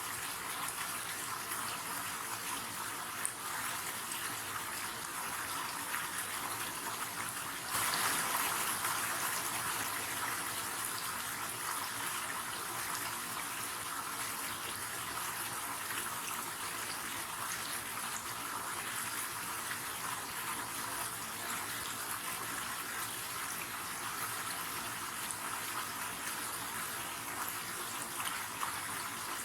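River water rushing steadily over rocks, a constant hiss-like flow. It turns a little louder all at once about eight seconds in, then settles back.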